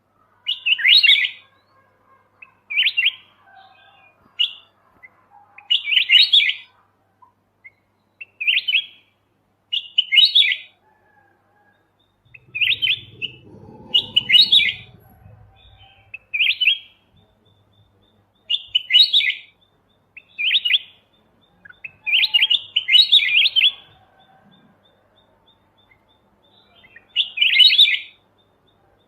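Kutilang emas mata putih, a golden bulbul, singing short, loud warbled phrases in a high register, one roughly every two seconds with brief pauses between, as used for masteran song-training of other songbirds.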